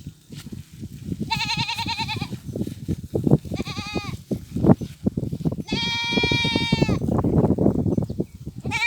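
Goats bleating, three calls: the first quavering, a short second, and a longer steadier third, with a fourth call starting at the very end. Underneath is a busy patter of short low knocks and rustles.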